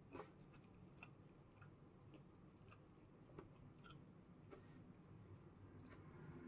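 Near silence: faint, irregular mouth clicks about every half second to a second as someone chews barbecued pork ribs, over a low room hum.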